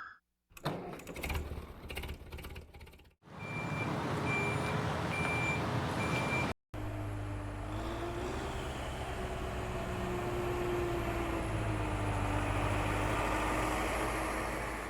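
A small motor running steadily with a whine that drifts slightly in pitch, over a rushing noise. In an earlier cut, a high electronic beep repeats about four times over the same rushing noise.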